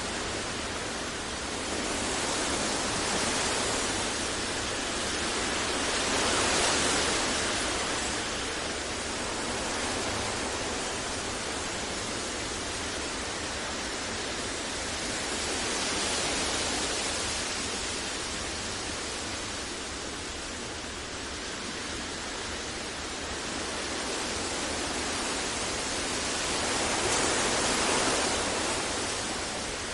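Steady synthetic noise made for sleep and focus, a full, even hiss with no tones or clicks, slowly swelling and easing in loudness every several seconds.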